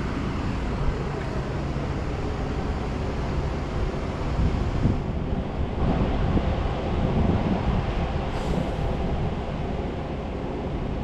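A vehicle engine running steadily with a low rumble, growing louder and rougher from about four and a half to eight seconds in.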